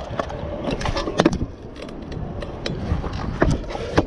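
Stunt scooter wheels rolling, with sharp clacks and rattles of the scooter hitting and landing. The loudest clacks come about a second in and again about three and a half seconds in.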